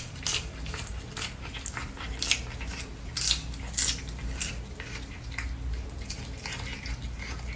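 Chewing with irregular crisp crunches and clicks, several a second, over a low hum.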